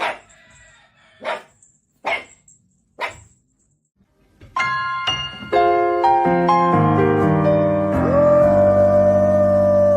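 A dog barks four times, roughly a second apart. Then, about four and a half seconds in, music starts: a descending run of keyboard notes that settles into a held chord with one long sustained tone.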